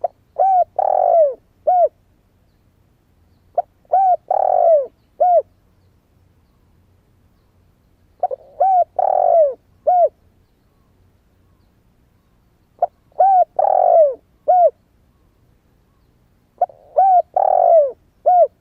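Spotted dove (cu gáy), a newly calling young bird, cooing: five repeated phrases about four seconds apart, each a couple of short coos, then a longer, louder falling coo and a final short coo.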